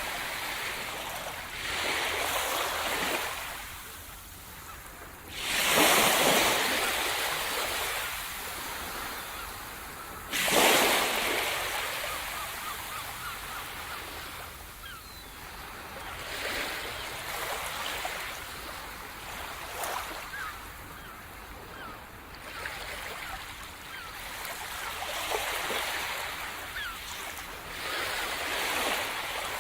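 Sea surf: waves washing in and out on the shore in surges every few seconds. Two big breakers crash about five and ten seconds in, and they are the loudest moments.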